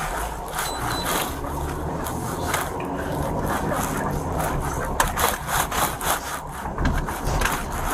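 Patrol car pulling away and driving, its low road rumble steady inside the cabin, with repeated scraping and rubbing noises close to the microphone.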